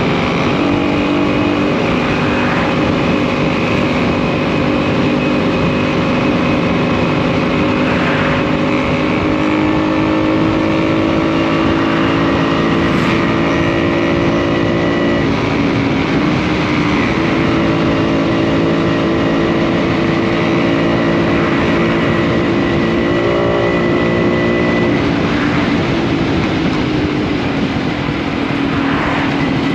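Small post-war two-stroke motorcycle engine running under way. Its note climbs slowly, then drops sharply about halfway through and again near the end.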